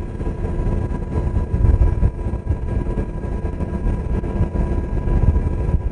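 Steady in-flight rumble of a UH-60 Black Hawk helicopter's twin turboshaft engines and rotor, a dense low drone with faint steady whining tones above it.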